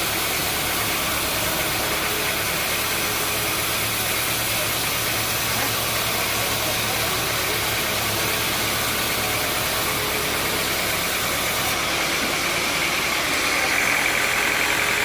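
Sawmill machinery running steadily with a dense mechanical drone, growing slightly louder near the end.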